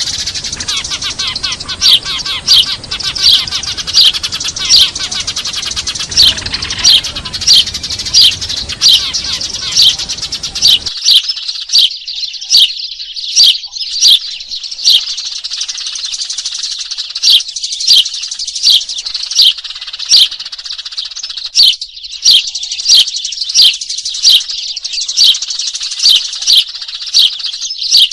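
Eurasian tree sparrows chirping in a noisy, dense chorus, with loud sharp chirps a little under two a second over continuous chatter. A low background hiss drops out suddenly about eleven seconds in.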